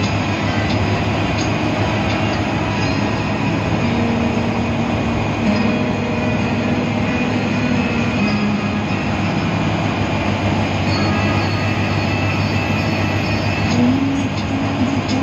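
Cabin noise of a moving diesel bus: steady engine drone and road rumble. The engine note shifts up and down in pitch a few times.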